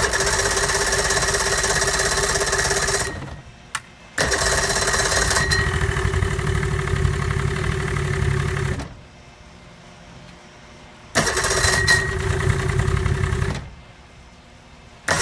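Chrysler 70 hp outboard being cranked on its electric starter in three bursts of a few seconds each, with a steady starter whine over a fast chugging, without catching. It is a cold start on old fuel after about two years of storage, and fuel is not yet getting through for it to fire.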